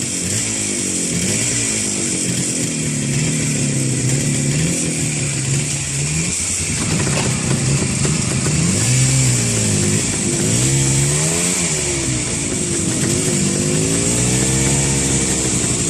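Motorcycle engine running, fairly steady at first, then revved up and down several times in the second half.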